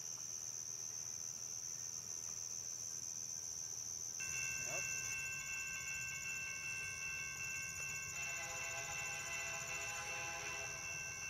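Crickets chirping steadily. About four seconds in, a distant train's steady chord of high tones starts suddenly, and more, lower tones join it about eight seconds in.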